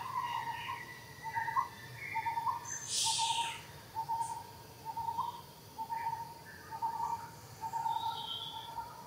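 A bird calling a short, even note over and over, about once a second. A brief hiss cuts across about three seconds in.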